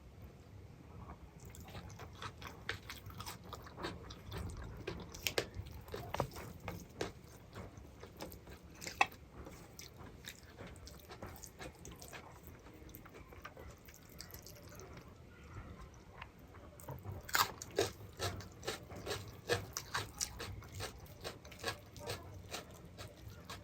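Close-miked eating: chewing with many short wet clicks and smacks of the mouth, getting busier and louder in the last third.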